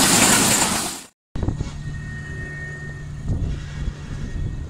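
Passenger coaches passing close by at speed, a loud rushing clatter of wheels on rail with a bright hiss, cut off suddenly about a second in. Then a much quieter steady low hum and rumble from a train approaching from far down the line.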